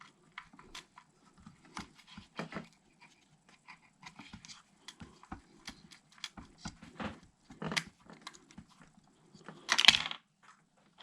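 Faint, scattered small clicks and taps of a 1.5 mm hex driver working a tiny grub screw loose on a radio-control truck's parts, with one short louder hiss-like burst about ten seconds in.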